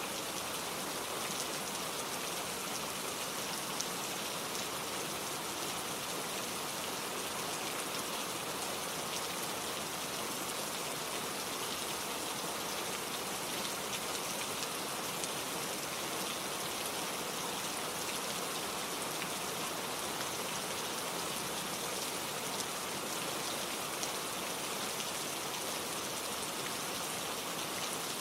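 Steady gentle rain falling, an even hiss with faint scattered drop ticks and no thunder.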